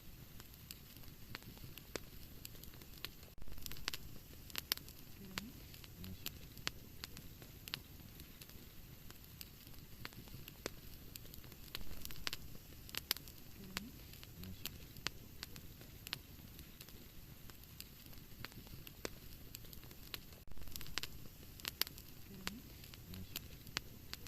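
Wood fire burning in a fireplace, with a soft low rumble under frequent sharp crackles and pops. The same run of pops comes round about every eight and a half seconds.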